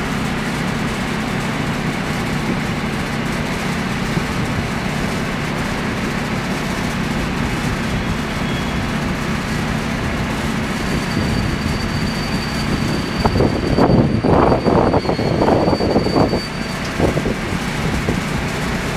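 Steady rumble of a locomotive-hauled passenger train rolling along station tracks. A thin high tone sounds for several seconds past the middle, and about two-thirds in, louder irregular bumps and gusts come over the rumble for a few seconds.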